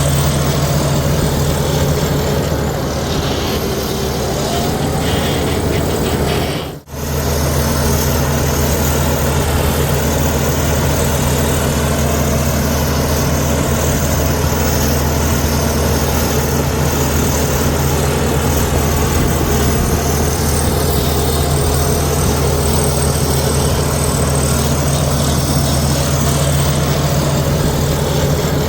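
Diesel engine of a Komatsu D61EX bulldozer running steadily at an even pitch, with a momentary drop in level a little under seven seconds in.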